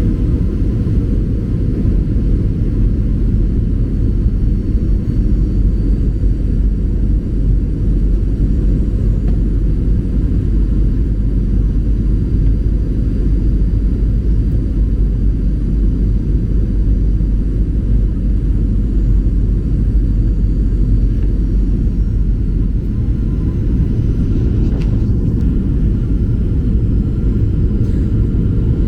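Cabin noise inside a Boeing 737-800: a loud, steady low rumble of the jet engines and airflow, unchanging throughout.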